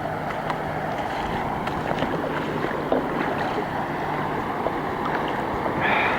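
Floodwater from an overflowing creek rushing steadily across the ground, with scattered small ticks over it and a brief higher sound just before the end.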